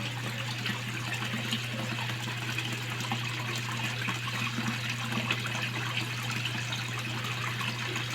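Water splashing and running steadily into a koi pond, with a steady low hum underneath.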